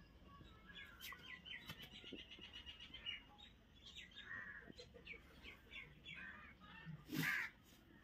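Bird chirping: a fast, even run of high chirps, about ten a second, then scattered single chirps, with one louder, rough call near the end.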